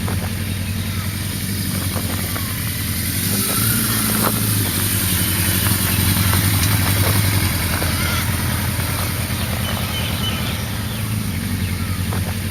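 Big motorcycle engine of a custom trike, running steadily at low revs.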